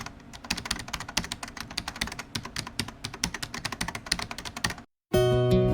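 Rapid, irregular clicking like typing on a keyboard, several clicks a second, which stops abruptly just under five seconds in. After a brief silence, strummed acoustic guitar music begins near the end.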